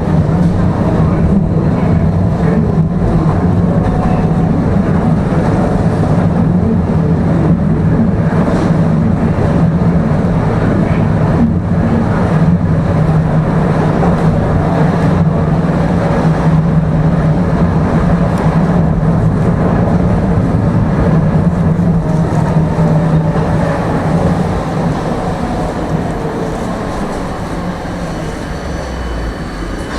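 Tram running between stops, heard from inside the car: a steady low hum of motors and wheels on the rails with scattered clicks, growing quieter over the last few seconds as it slows for the next stop.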